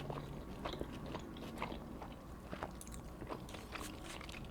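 Close-miked chewing of a Subway sub sandwich: irregular soft wet mouth clicks and small crunches.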